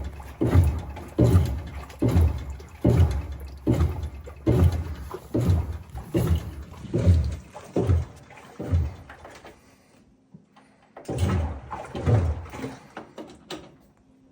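Washing machine drum turning with water sloshing inside, in regular surges a little under a second apart. It pauses about ten seconds in, then starts again with a few more surges.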